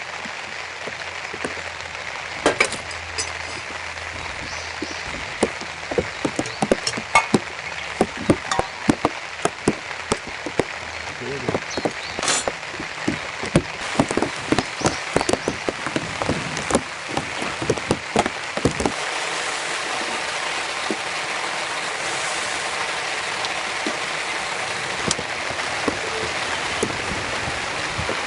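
Rain falling steadily, with many sharp taps of individual drops striking a surface for the first two-thirds. It then settles into an even, slightly louder patter.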